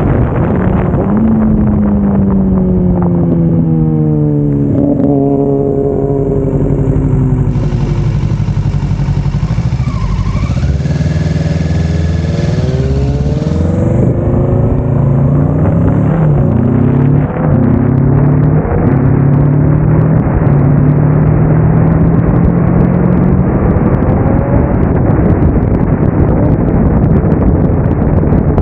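Kawasaki Ninja 650 parallel-twin engine heard while riding: its pitch falls as the bike slows, rises again as it pulls away, holds steady at a cruise for several seconds, then climbs again near the end.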